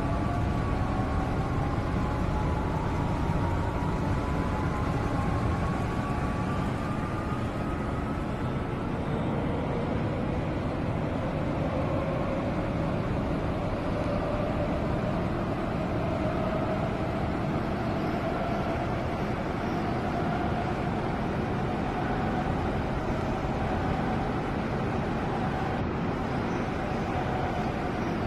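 Seoul Metro Line 2 electric subway train running between stations, heard from inside the car: a steady rumble of wheels on track with the traction motors' whine gliding in pitch, rising as the train picks up speed.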